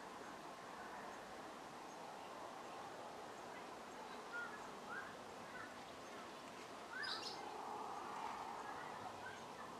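Faint outdoor ambience of birds chirping: a few short, scattered chirps over a steady low hiss that grows slightly louder about seven seconds in.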